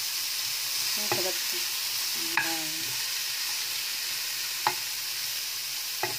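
Chopped onion, tomato, garlic and chili sizzling in hot oil in a frying pan, stirred with a wooden spatula that knocks against the pan a few times.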